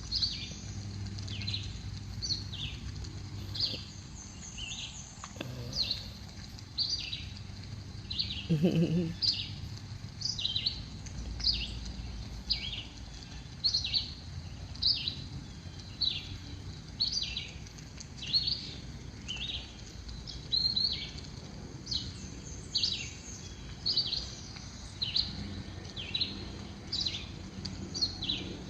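A songbird calling over and over, each call a short high note sliding down in pitch, about one a second.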